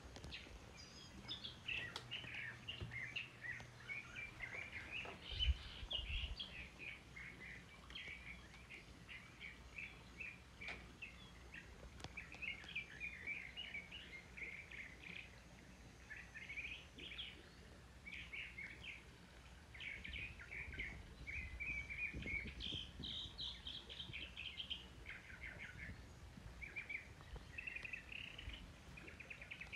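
Small birds chirping and twittering without pause, many short high calls overlapping. There is a single low thump about five seconds in.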